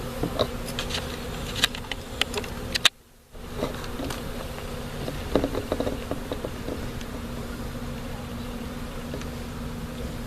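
Honeybees buzzing in a steady, loud hum from an opened nuc, agitated and 'mad' after being smoked. A few light knocks and clicks are heard over it, and the sound cuts out for a split second about three seconds in.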